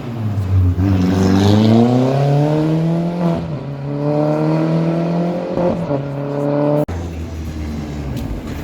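Rally car engine accelerating hard, its pitch climbing, dropping at an upshift about three seconds in, then climbing again. The sound breaks off suddenly near seven seconds and is followed by a lower, steadier engine note.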